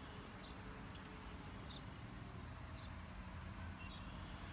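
Faint outdoor background: a steady low rumble with a few short, high chirps scattered through it.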